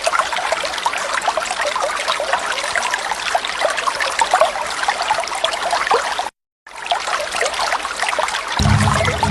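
Water trickling and splashing from a small waterfall, a steady bubbling rush that cuts out completely for a moment about two-thirds through. A low pitched sound comes in near the end.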